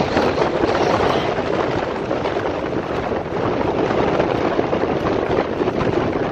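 Strong squall wind buffeting the microphone: a loud, steady, gusting rush.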